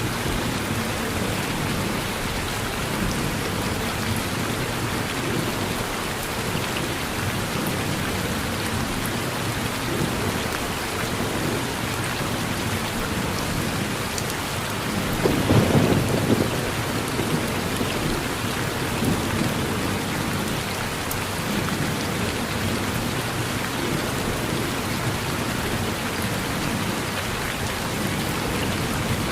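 Steady rain falling on a porch, with one roll of thunder rumbling for about two seconds midway.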